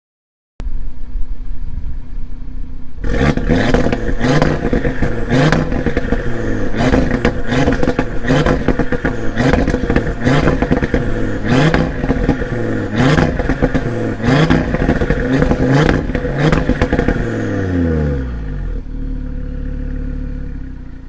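Turbocharged sports car's exhaust, revving over and over: each run climbs in pitch and then drops sharply, with crackles among the revs. Near the end the revs fall away and the engine settles to a steady lower note.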